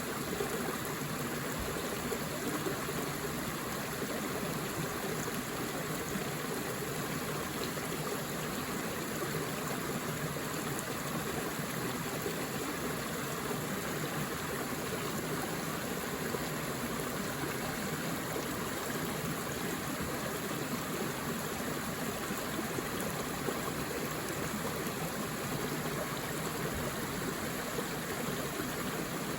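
Forest river or stream flowing, a steady rush and babble of water.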